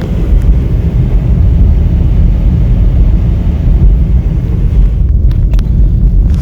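Steady low rumble of a vehicle driving, heard from inside the cab, with a few faint clicks near the end.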